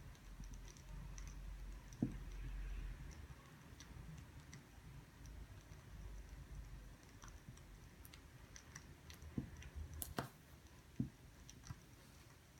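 Scattered soft clicks and light taps, a few sharper ones near the end, over a faint low hum.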